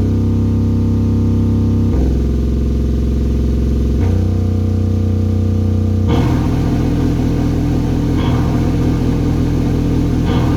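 Loud distorted noise music played live: sustained low droning chords that shift pitch every two seconds or so, then about six seconds in it breaks into a harsh, dense wall of noise.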